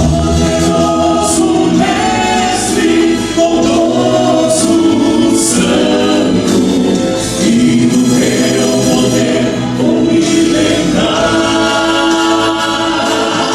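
Vocal quartet singing a gospel song in harmony, the voices holding chords together and moving between them.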